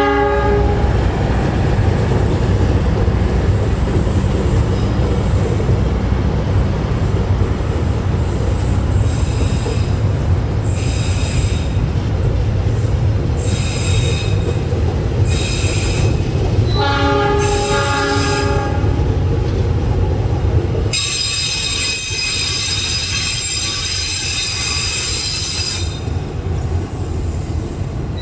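Passenger train rolling past with a steady low rumble of wheels on rail. Short bursts of high-pitched wheel squeal come and go through the middle. A train horn sounds briefly at the start and again just past halfway, and near the end a long squeal holds for about five seconds.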